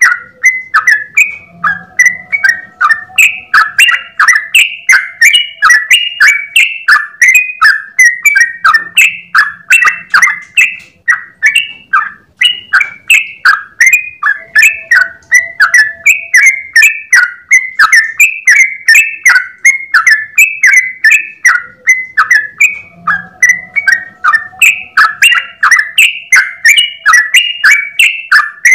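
Yellow-vented bulbul (trucukan) singing a long, unbroken run of short notes, about two to three a second, without a pause: the rapid continuous 'ropel' song.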